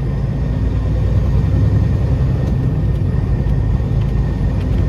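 Peterbilt 389 semi truck pulling a loaded lowboy trailer, engine and drivetrain running in a steady low rumble at slow road speed.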